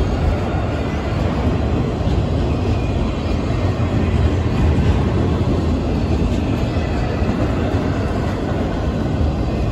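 Freight train's enclosed autorack cars rolling past at speed: a steady rumble of steel wheels on rail.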